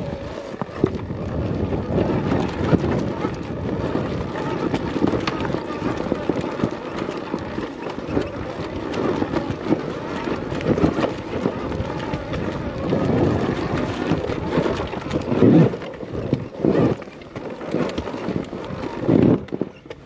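Wind rushing over the microphone and trail rumble while an Arctic Leopard XE Pro electric dirt bike is ridden on single track, with a few louder gusts or jolts in the last few seconds.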